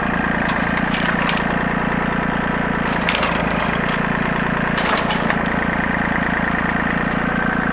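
Compact tractor engine running steadily, with scattered cracks and snaps of dead, rotted wood as a tree is pushed over and broken.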